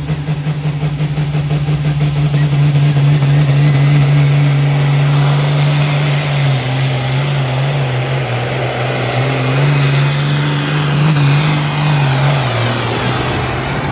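A pulling vehicle's engine running loud at steady revs, growing louder over the first few seconds, its pitch dipping and wavering a little in the second half.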